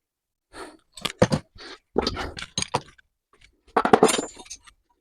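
Oily cast-iron bench vise being wiped dry by hand: irregular rubbing and scraping strokes in several short bursts, with a few sharp clicks.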